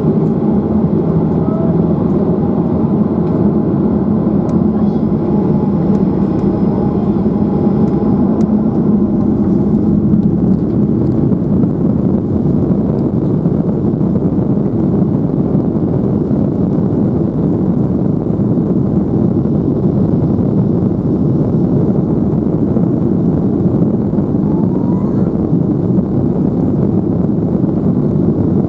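Boeing 737-800's CFM56 jet engines running with a loud, steady roar. A few faint steady tones fade out about a third of the way through.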